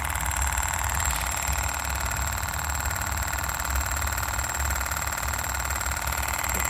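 Small PM Research solar Stirling hot-air model engine running at a steady speed, its moving parts making a fast, even mechanical clatter over a low hum.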